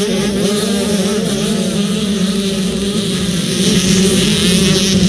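Motocross motorcycle engines buzzing at high revs as the bikes race on the track. Several engine pitches overlap and waver.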